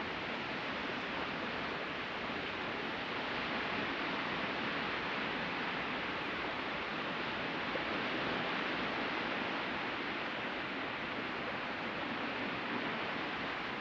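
Surf washing onto the beach: a steady, even hiss of breaking waves that swells and eases gently.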